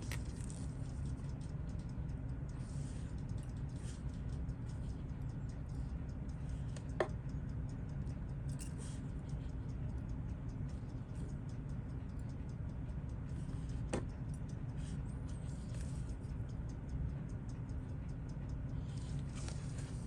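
Fast, faint ticking of a Seiko 6139 automatic chronograph movement over a steady low hum, with two sharper clicks of small tools on metal, about seven and about fourteen seconds in.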